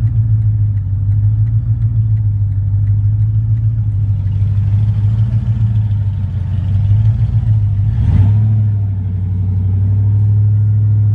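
Supercharged 5.4-litre V8 of a 1999 Ford F-150 SVT Lightning running with a steady, loud, deep rumble. There is a brief noise burst about eight seconds in.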